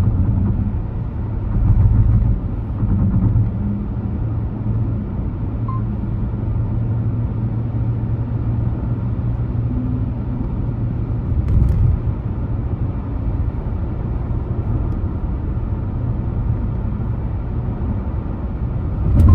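Car driving: a steady low rumble of engine and road noise, with a few dull thumps, about two seconds in, near twelve seconds and at the very end.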